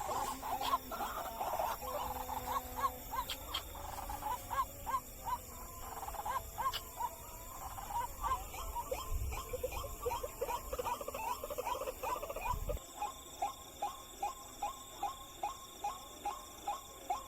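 White-breasted waterhen (ruak-ruak) calls: a long series of short, quickly rising notes, about two a second, becoming very even in the last few seconds. A low rumble underneath cuts off suddenly about thirteen seconds in.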